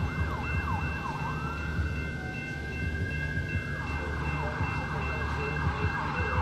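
Ambulance siren with a weird sound, cycling through fast yelping sweeps, switching to a slower rise-and-fall wail about two seconds in, then back to fast yelps near four seconds, over a steady low rumble.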